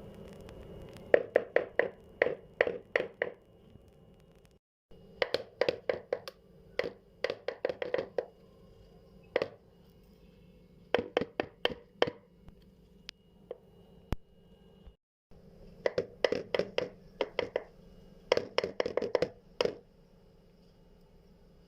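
A spoon clacking against a bowl in quick runs of sharp taps, about five or six a second, with pauses between runs, as pasta is stirred together with mayonnaise.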